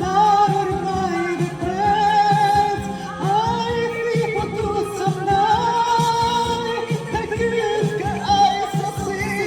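Song playing: a voice singing a wavering, drawn-out melody over steady accompaniment.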